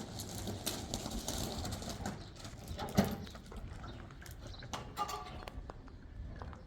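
Scattered clicks and knocks, with one louder knock about three seconds in.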